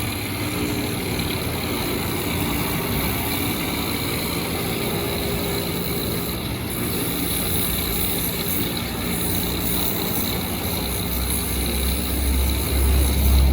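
Electric sander running steadily while a rubber sole made from aircraft tyre is sanded down, with rubber grinding against the abrasive. A deeper, louder rumble comes in near the end.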